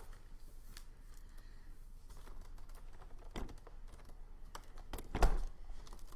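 Light, scattered taps of typing on a computer keyboard, with a louder thump about five seconds in.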